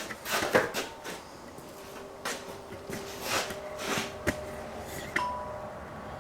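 A series of irregular knocks and clunks from things being handled and moved, with a faint ringing tone after some of them.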